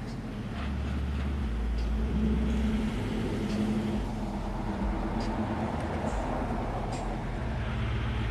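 Car engine running, with a deep rumble strongest between about half a second and two and a half seconds in, over a steady low hum; a few light clicks.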